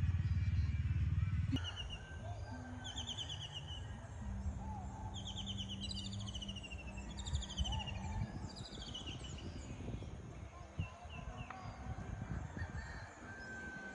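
Birds singing in repeated quick phrases of fast descending chirps, high-pitched. A low rumble runs underneath at first and cuts off suddenly about a second and a half in.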